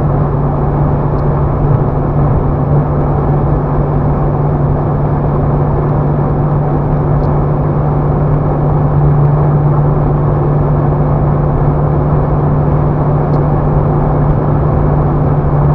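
Renault Mégane II 1.5 dCi four-cylinder turbodiesel running at a steady engine note that neither rises nor falls, under heavy road and wind noise: the car is holding a constant speed.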